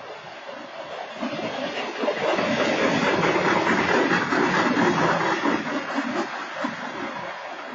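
BNSF freight train cars rolling past, wheels on rail: a steady rushing, clattering noise that swells about two seconds in and eases off near the end. No horn sounds.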